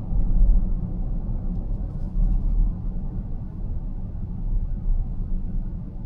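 Steady low road and tyre rumble heard inside a moving car's cabin, with a few faint ticks about two seconds in.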